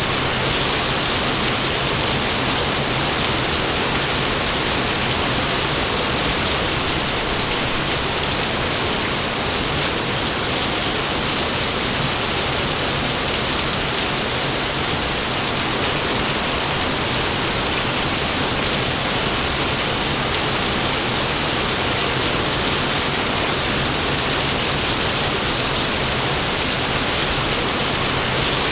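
Heavy rain falling steadily, with no thunder in this stretch.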